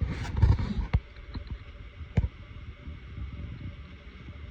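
Handling noise from working on the bike by hand: rustling and knocks in the first second, then two sharp clicks about a second apart, as small parts and tools are picked up and set in place.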